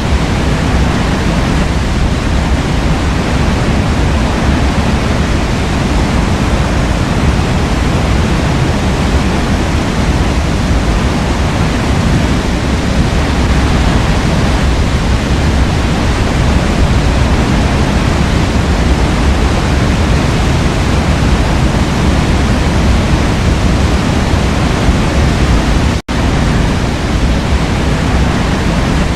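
Forest waterfall: a loud, steady rush of falling water. The sound cuts out for an instant near the end.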